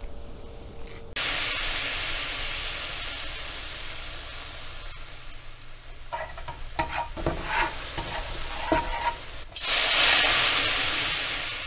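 Sizzling of food frying, set off suddenly about a second in, easing slowly with a few short pops and crackles in the middle. A second, louder surge of sizzling comes near the end and fades away.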